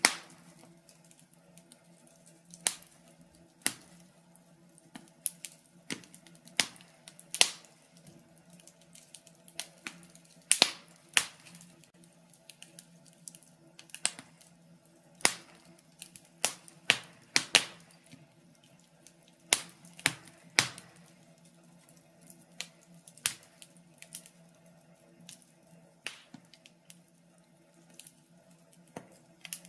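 Wood fire in a fireplace crackling, with sharp irregular pops, some much louder than others, over a faint steady low hum.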